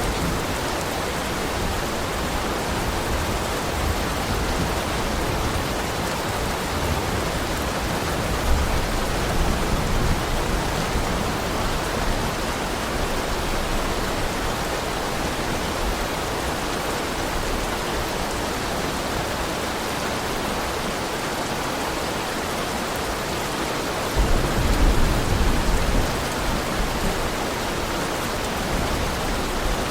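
Heavy rain falling steadily, with a low rumble swelling twice: about eight seconds in, and again about three-quarters of the way through.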